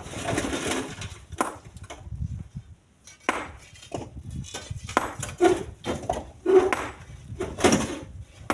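Split stones knocking and clattering as they are handled and dropped into a truck bed, a string of irregular sharp knocks, loudest in the second half.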